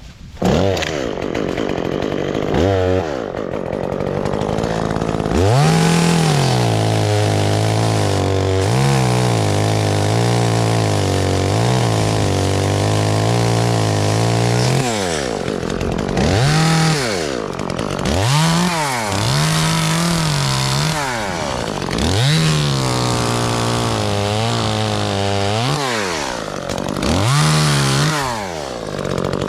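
Two-stroke chainsaw starting up about half a second in, then revved up and down again and again, with steadier stretches in between.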